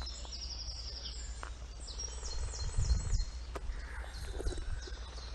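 Small songbirds chirping: several quick runs of short, high-pitched repeated notes, over a steady low outdoor rumble.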